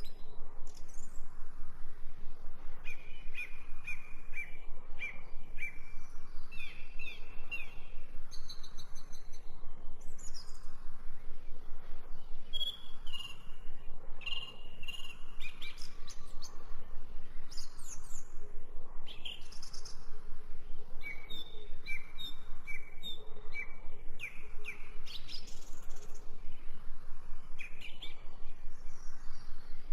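Songbirds chirping and singing, with series of short repeated notes and quick rising and falling calls.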